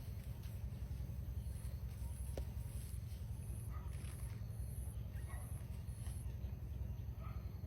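Outdoor ambience: a steady low rumble under a high buzzing chirp that repeats about twice a second and stops about six seconds in, with a few faint chirps.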